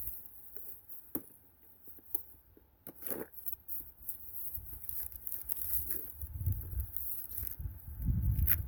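Scattered clicks, taps and rustles from handling fishing tackle while changing lures, with a short scraping rustle about three seconds in and low rumble near the end.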